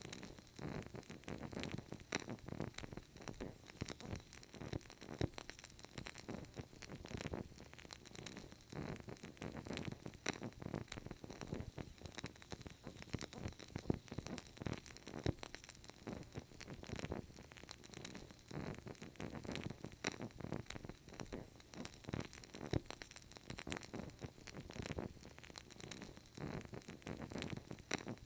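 Burning candle crackling in a continuous stream of small, fast pops.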